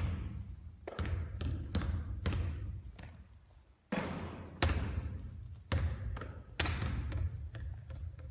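A basketball bouncing on a court, about a dozen sharp thuds at irregular spacing, each ringing briefly.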